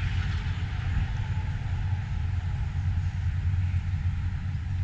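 6.6-litre Duramax V8 turbodiesel of a tuned 2015 Chevrolet Silverado 2500HD idling with a steady low drone, through its turbo-back performance exhaust.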